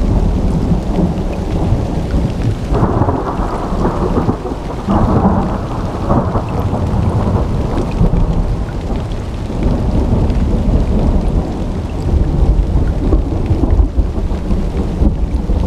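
Summer thunderstorm: steady rain with low rolling thunder. The rumble swells louder and brighter about three seconds in and again around five to seven seconds, then settles back.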